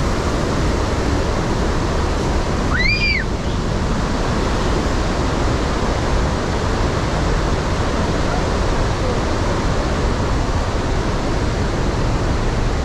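Iguazu Falls: a loud, steady rush of falling water with no breaks. About three seconds in, a brief high call rises and falls once over it.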